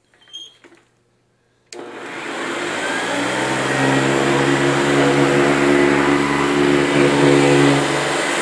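Hoover Convertible upright vacuum cleaner switched on after a few small clicks, its motor spinning up over about two seconds and then running steadily.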